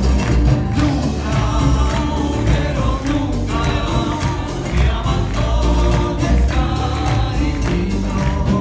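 Live music: several voices singing together over a heavy bass and steady percussion.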